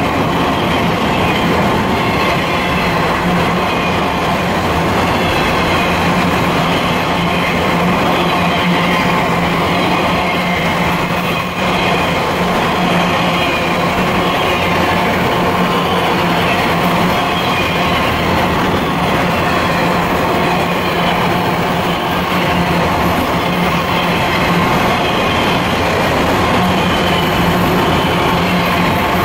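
Freight cars of a Florida East Coast Railway train, double-stack intermodal well cars and autorack cars, rolling past at close range: a steady, continuous rumble of steel wheels on the rails.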